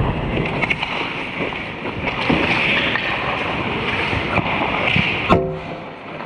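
Ice hockey play: skate blades scraping on the ice over rink noise, with a few sharp knocks, the loudest about five seconds in.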